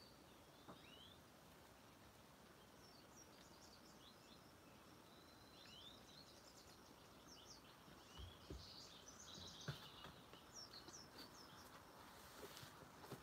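Faint outdoor ambience with songbirds chirping and calling throughout, and a few rustles and footsteps through garden plants near the end.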